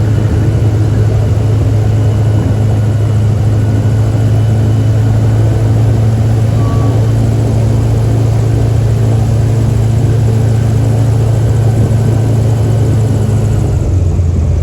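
Airboat engine and its big air propeller running at a steady speed: a loud, steady drone. The pitch drops slightly just before the end.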